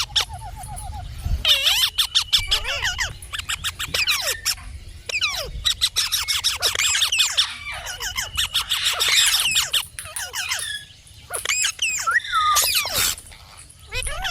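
Indian ringneck parrot chattering: rapid strings of sharp squawks mixed with whistled, bending high calls, with a couple of short pauses.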